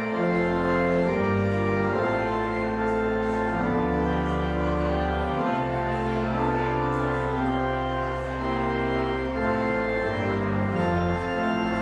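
Organ music: full held chords over low bass notes that change every second or two.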